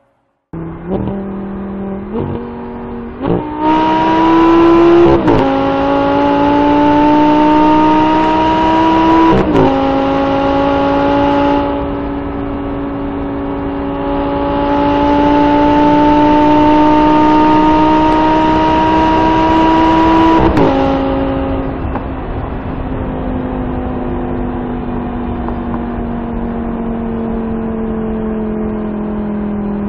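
Audi R8 GT Spyder's 5.2-litre V10 heard from inside the cabin, accelerating hard through the gears with quick upshifts about 2, 3, 5 and 9 seconds in, then pulling steadily higher in pitch at high speed. About 20 seconds in it shifts up once more, then the engine note falls steadily and gets quieter as the car slows off the throttle.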